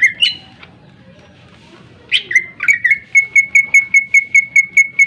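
Cucak ijo (green leafbird) singing. A couple of sharp whistled notes at the start, then a pause, then about two seconds in a few falling notes that lead into a fast run of identical sharp notes, about five a second.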